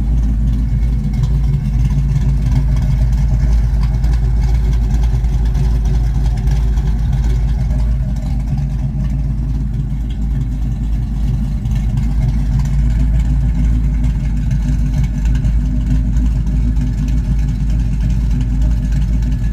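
1972 Ford Mustang Mach 1's V8 engine, fitted with a Crane 2040 cam and a Black Widow Race Venom muffler on a single 3-inch exhaust, running steadily with a low, even exhaust note.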